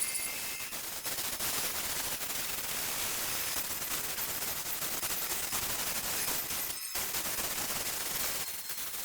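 Saw cutting through wood: a continuous, dense rasping noise made of rapid ticks, broken off briefly about seven seconds in.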